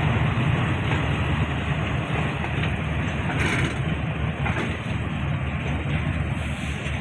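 Passenger train pulling slowly out of the station: a steady low rumble of the train running, with a few faint knocks.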